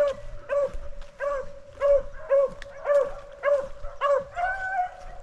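Beagles baying on a rabbit's trail: a run of short chop barks, about two a second, over a steady held note, with one longer drawn-out bawl near the end.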